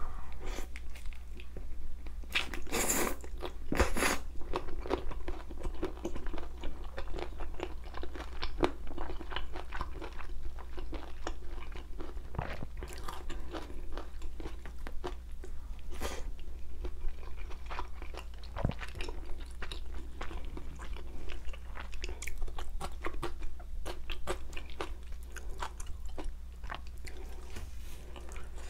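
Close-miked chewing and crunching of a mouthful of spicy bone-in chicken feet and bean sprouts: a steady run of small, sharp, irregular crunches and wet clicks. The loudest crunches come a few seconds in.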